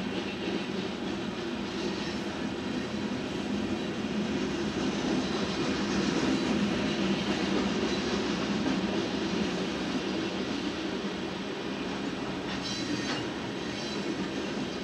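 Union Pacific freight train's covered hopper cars rolling past, a steady noise of steel wheels on rail heard from inside a car. A brief high screech, likely wheel squeal, comes about two seconds before the end.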